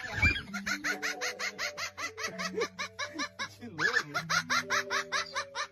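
Rapid, rhythmic laughter, about seven quick "ha" syllables a second, in two runs with a brief pause between them.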